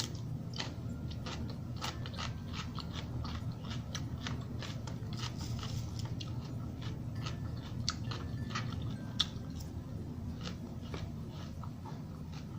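A person chewing a mouthful of crunchy salad with raw cucumber, in a quick, irregular run of crisp crunches.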